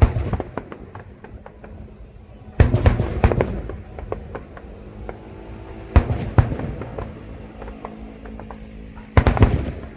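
Aerial fireworks shells bursting about every three seconds. Each burst is a sudden boom followed by a spray of crackling pops.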